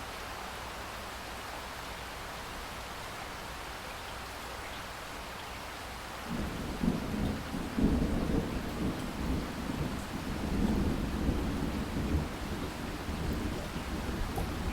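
Steady rain hiss. About six seconds in, a roll of thunder breaks in with a deep rumble that peaks a couple of seconds later and keeps rolling, with the rain going on underneath.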